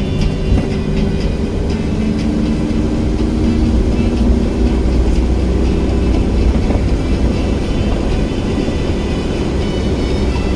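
A car driving along the road, with a steady low rumble from the road and engine.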